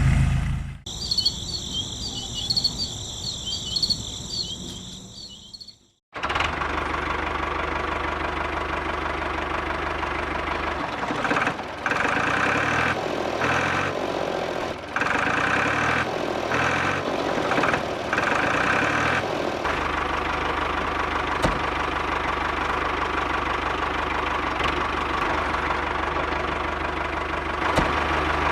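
A steady mechanical running sound like a small engine or motor idling, starting about six seconds in, with an uneven, pulsing stretch in the middle. Before it, a high fluttering chirr fades out.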